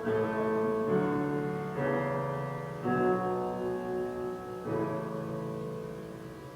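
Piano playing slow chords, about five struck a second or so apart, each dying away, the last one fading out near the end.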